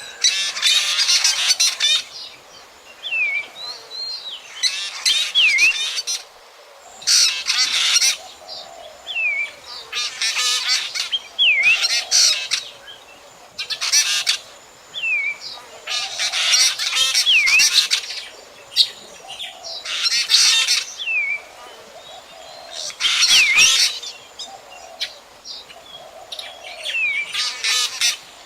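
Black drongo calling: a short clear whistle that dips and rises, then a burst of harsh, rapid chattering, repeated over and over a few seconds apart.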